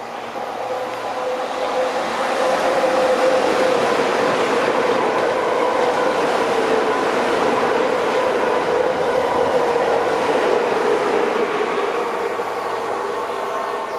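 Electric passenger train passing: the wheel and running noise builds over the first couple of seconds, holds for most of the time, then eases off near the end, with a steady hum running under it.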